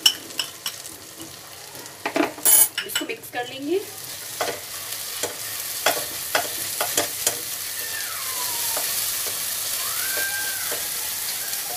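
Onion-tomato masala with ground spices frying in oil in a non-stick wok, stirred with a silicone spatula: scraping and clicking strokes for the first half, then a steady sizzling hiss as the spices roast.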